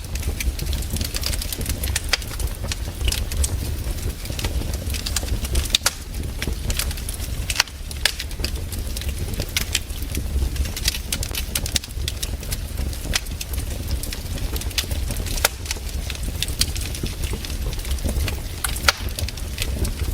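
Wood campfire crackling and popping: irregular sharp snaps, a few louder than the rest, over a steady low rumble.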